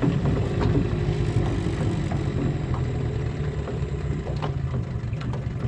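Boat's outboard motor idling steadily with a low, even hum.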